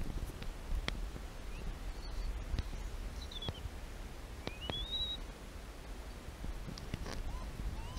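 A few short bird chirps over a low steady rumble, with scattered light clicks. The clearest chirp is a high rising call about four and a half seconds in.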